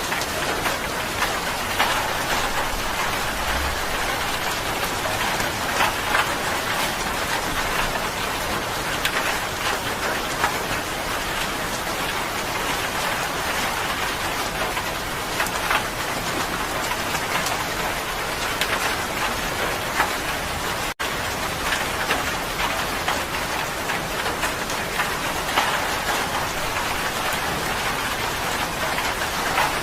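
Steady rain falling, a dense even hiss with many small drop taps scattered through it. It cuts out for a split second about two-thirds of the way through.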